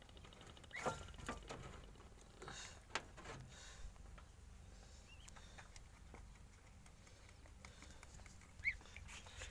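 Faint scattered rustling and light taps from rabbits moving about, with a few short high chirps, one about five seconds in and a sharper one near the end.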